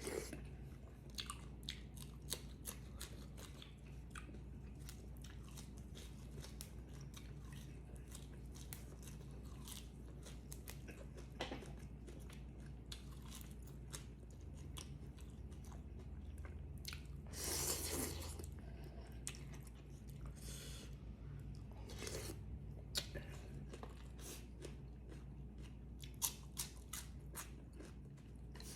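A person chewing and crunching food close to the microphone, with many small wet mouth clicks and a longer noisy burst about two-thirds of the way through.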